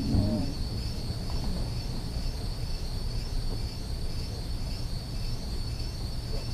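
Ex-Liverpool Corporation tram 869 running on its rails: a steady low rumble with a thin, steady high-pitched whine over it.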